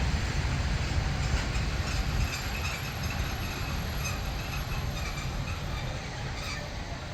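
A train running on the track, its low rumble easing off after about two seconds as it moves away, with scattered faint clicks.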